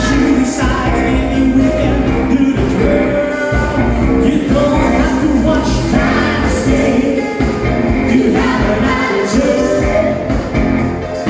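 Live band playing an up-tempo pop-rock song with a lead singer, the full band and vocals going continuously.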